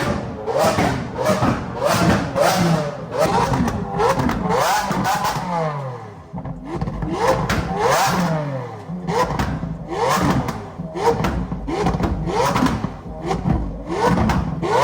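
Car engines revved hard over and over, the pitch climbing and dropping about once a second, with sharp exhaust pops throughout.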